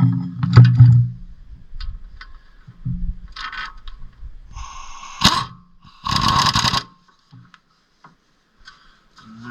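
Metal hand tools clinking and scraping while working on a car's front suspension, with a few short bursts of noise, the loudest about six seconds in.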